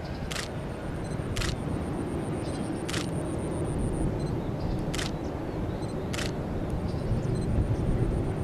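Low rumbling background noise, growing slightly louder, with a sharp short click every one to two seconds and a faint, steady high-pitched whine.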